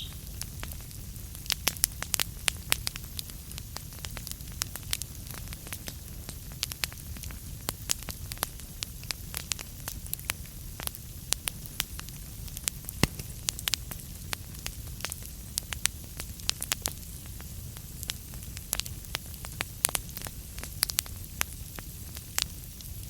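Burning wood crackling: irregular sharp pops and snaps, several a second, over a steady low rumble of the fire.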